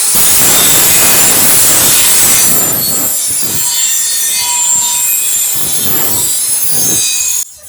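Hand grinder grinding steel channel, a loud steady grind with a high metallic ring, prepping the pieces to be welded. It cuts off suddenly near the end.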